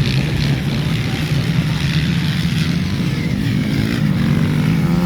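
Dirt-bike engines running during a velocross race, a steady droning note that climbs slightly near the end.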